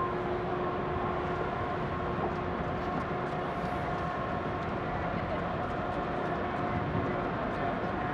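Steady rumbling noise of the large passenger ferry Ogasawara Maru under way as it leaves port, with a few faint steady tones held through it.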